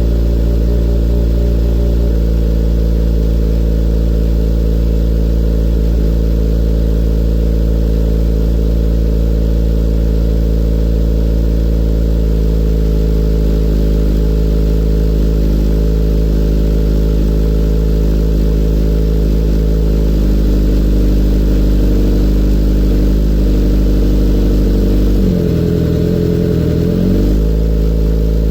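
Kawasaki Z900's inline-four idling through an Akrapovic full exhaust with no dB killer, warming up after a cold start. It holds a steady, deep idle, with the engine speed briefly rising and falling once near the end.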